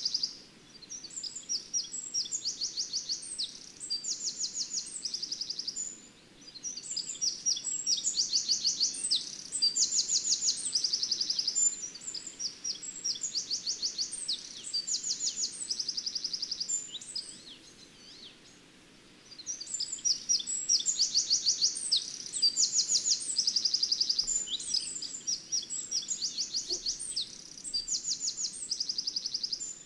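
A small songbird singing: high, fast trilled phrases a few seconds long, separated by short pauses.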